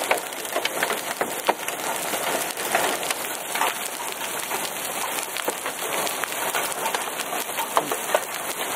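Hailstones about penny to nickel size, mixed with rain, pelting a car in a steady dense patter, heard from inside the car. Many sharp individual clicks stand out as single stones strike.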